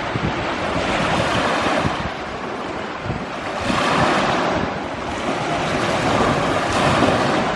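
Sea waves washing onto the shore, the surf swelling and falling back about every three seconds, with wind buffeting the microphone.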